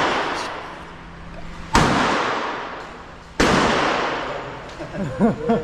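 Two shotgun blasts about a second and a half apart, each followed by a long echoing decay.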